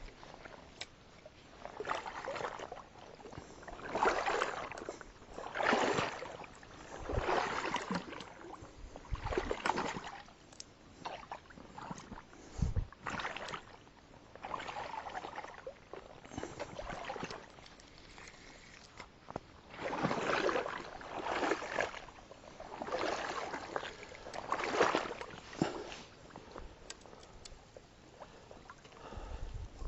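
Kayak paddle strokes swishing through the water, one about every two seconds, with a pause of a few seconds midway.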